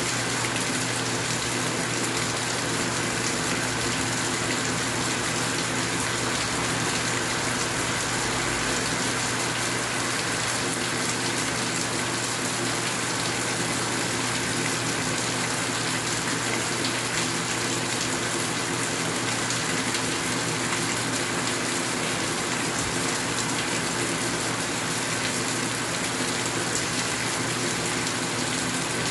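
Steady rain falling: an even, unbroken hiss that stays at one level throughout.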